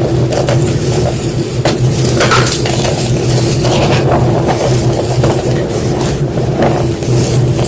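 White gym chalk crunching and crumbling in irregular crackling strokes, over a steady low hum.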